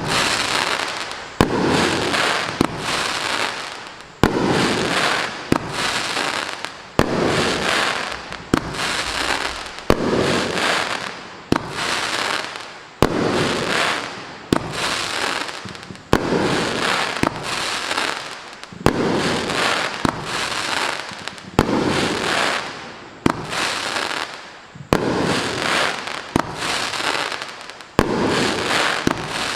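350 gram fireworks cake (Pyroshine P-520 Golden Noise) firing a steady string of about twenty shots, one every second and a half. Each shot is a sharp report followed by a long noisy tail that fades before the next one.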